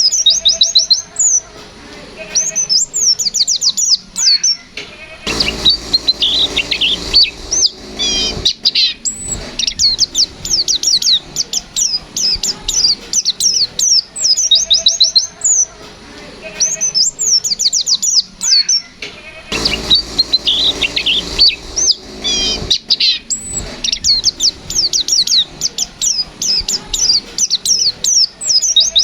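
White-eye (pleci, Zosterops) singing a fast, aggressive 'fighter' song: rapid runs of sharp, high chirps and trills with brief pauses between phrases. Twice, a hiss lasting about three seconds sits under the song.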